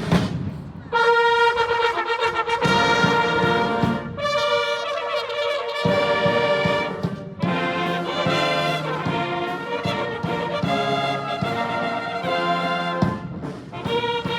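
Military band brass playing slow, held chords that change every few seconds, coming in about a second in after a few drum beats.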